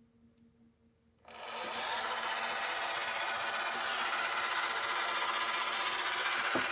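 iRobot Roomba Combo i5 robot vacuum running, its suction motor and brushes whirring steadily as it drives; the sound starts up about a second in.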